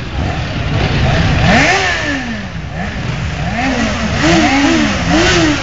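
Motorcycle engine revving: one long rev that rises and falls about two seconds in, then a run of quicker throttle blips near the end, over the low rumble of other running engines.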